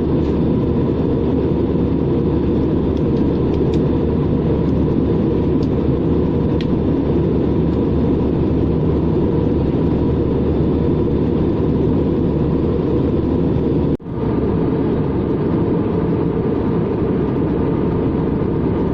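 Cabin noise inside an Airbus A320-214 with CFM56 engines: a loud, steady rumble of engines and airflow, with a faint hum above it. It cuts out for an instant about three-quarters of the way through.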